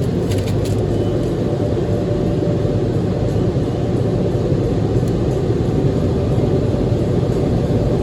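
Tunnel car wash dryer blowers running, a loud, steady rumble of air heard from inside the car's cabin during the drying stage.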